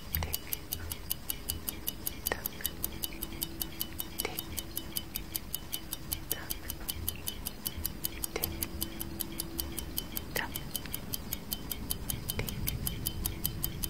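Clock tick-tock sound effect: quick, evenly spaced ticks, with a softer sound about every two seconds.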